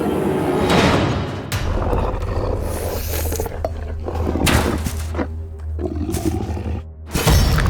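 Cartoon soundtrack: background music with a steady low bass, cut by about four sudden loud sound effects, the loudest near the end, with short growl-like sounds between them.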